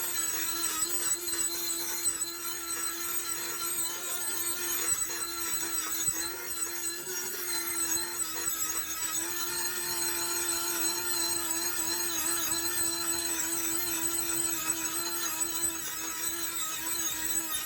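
A power tool running steadily with a constant hum and whine, its load wavering slightly as it works the metal.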